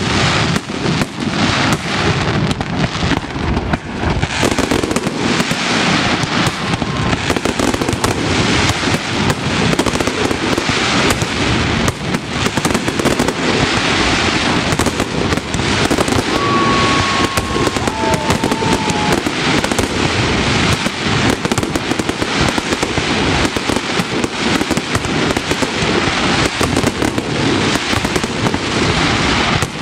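Aerial fireworks display: shells launching and bursting in rapid, overlapping succession, a dense unbroken run of bangs.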